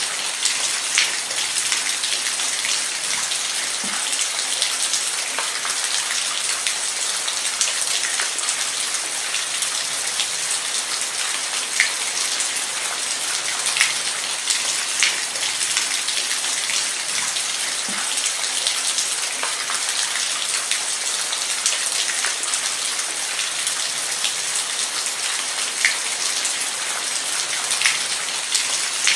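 Steady heavy rain falling, with individual drops ticking sharply on a hard surface now and then.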